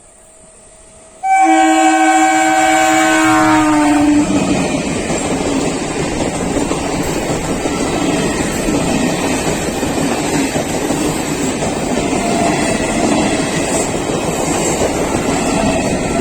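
A locomotive horn blasts once, loud and long, for about three seconds, starting suddenly about a second in, and sags slightly in pitch near its end. The express train then rushes past at speed, its wheels clattering steadily over the rails.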